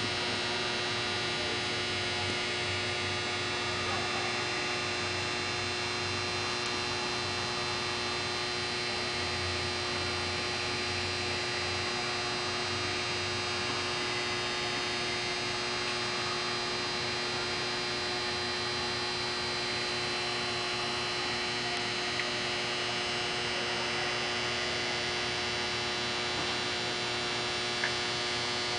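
Steady electrical hum made of many held tones, unchanging throughout, with one small tick near the end.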